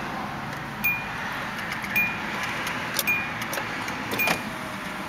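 The 1990 Hyundai Sonata's engine idling, heard from inside the cabin, with a short dashboard warning beep repeating about once a second. A faint motor whine comes in near the end.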